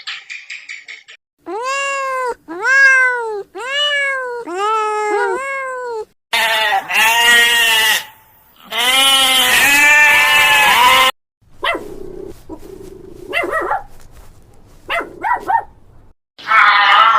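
Calls from several different animals in turn: first a run of about five arching, pitched bleat-like calls, then louder, harsher calls, then scattered short calls.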